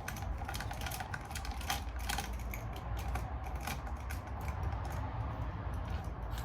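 Light, irregular clicking of a hand ratchet being worked to loosen bolts on a Suzuki LTR 450 engine during teardown, over a low steady hum.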